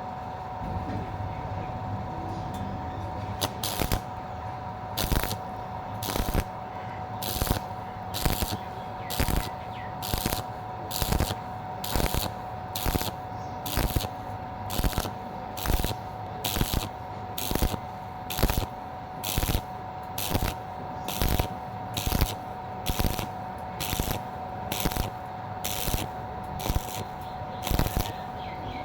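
Stick-welding arc crackling in short bursts about once a second, the arc struck and broken again and again as thin pipe is stitch-welded to a plate, over a steady whine.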